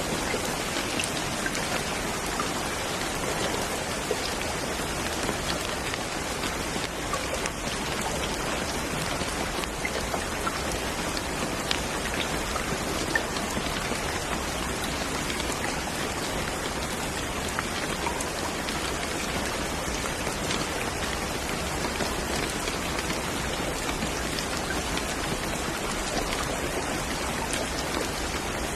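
Steady rain falling on a surface, with scattered individual drops ticking through the even patter.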